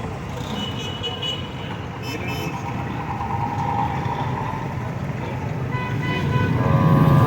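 Street traffic: vehicle engines running, with a horn sounding near the end as a louder engine rumble rises.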